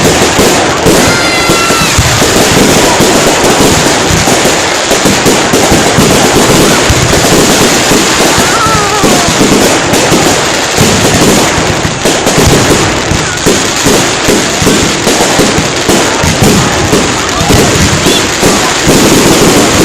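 Fireworks display: a dense, unbroken barrage of bangs and crackle, with a couple of whistling glides, one about a second in and one falling about eight seconds in.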